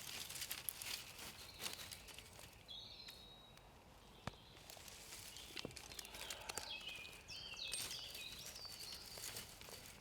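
Small birds singing in short high phrases, once about three seconds in and again over a couple of seconds later on, over scattered light clicks and crackles close by.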